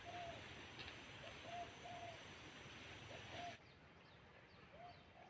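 Faint bird calls: short, arched, cooing notes repeated every second or so over a low hiss. The hiss drops away suddenly about three and a half seconds in.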